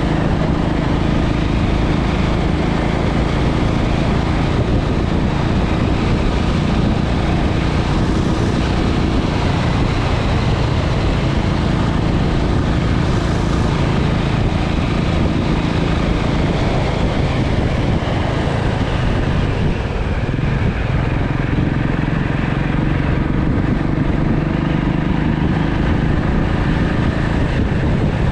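Motorcycle engine running under way, with a steady rush of noise. Its note eases off briefly about a third of the way in and again about two-thirds in, then picks back up.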